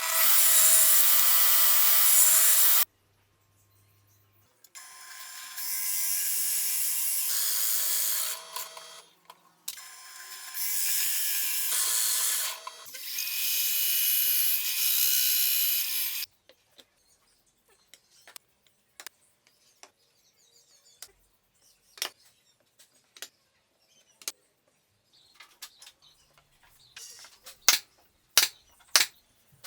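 Handheld power tool working wood in four runs of a few seconds each, a steady whine over a hiss. Then a string of sharp, irregular taps and knocks, louder near the end.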